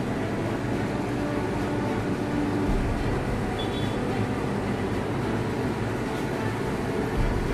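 Steady low engine rumble with street traffic noise.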